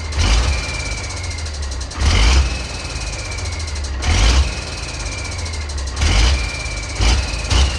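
Turbocharged diesel engine of a Ford D-series 1314 tipper truck idling with a steady low rumble. A short whoosh recurs about every two seconds, each followed by a faint high tone that slowly falls.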